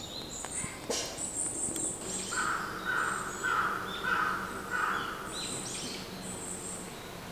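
Several wild birds singing, with high thin chirps throughout. In the middle one bird repeats a clear, lower note five times, about two a second. A single sharp click comes about a second in.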